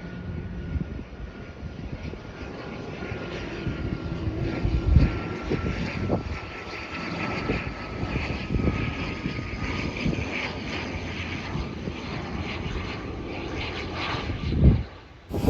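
Amakusa Airlines turboprop airliner's engines and propellers running, a steady whine that drifts slightly lower in pitch. Strong gusts of wind buffet the phone microphone, with heavy thumps about five seconds in and near the end.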